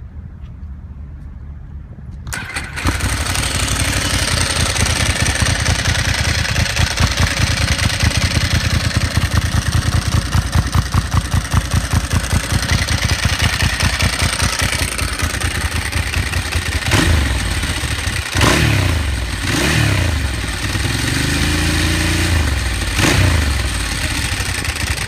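Ducati Sport 1000's air-cooled V-twin cranking and firing up about two seconds in through a Feluca slip-on exhaust run without its baffle. It then idles with a fast, even beat. Near the end it is blipped four times, the pitch rising and falling with each blip.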